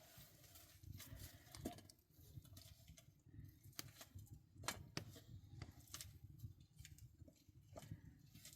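Faint, irregular clicks and taps over a low rumble.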